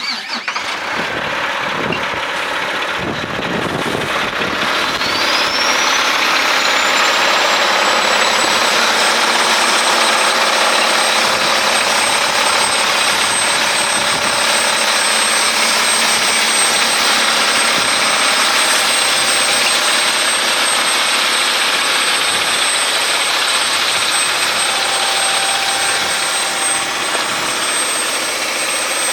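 Mack CXU613 truck tractor's diesel engine starting, then idling steadily. A high whine rises in pitch about four seconds in and then holds steady.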